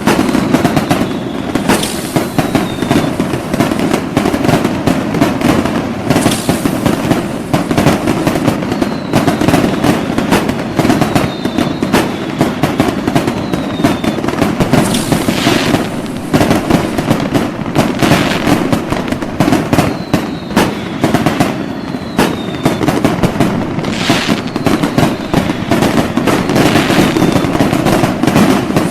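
A continuous barrage of fireworks: dense crackling and popping with louder bangs throughout, and several short whistles that fall slightly in pitch, as from whistling rockets or shells.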